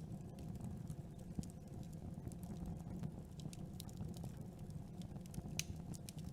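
Campfire crackling: burning wood gives scattered sharp snaps and pops over a low, steady rumble of flame, with one louder pop near the end.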